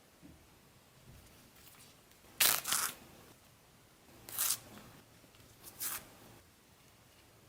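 Three short, crisp tearing sounds about a second and a half apart, the first the longest and loudest.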